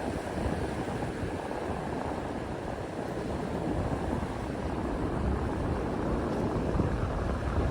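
A steady rush of moving river water, with wind buffeting the microphone in an uneven low rumble.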